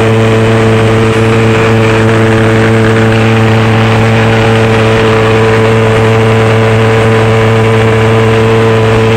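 Pulse jet engine on a motorcycle running steadily, a loud, even drone on one low pitch with its overtones.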